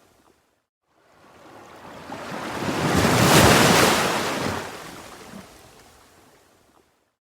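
A single ocean wave breaking. The surf swells up to a loud peak about halfway through, then washes back and fades. The sound drops to dead silence for a moment just after the start and again near the end.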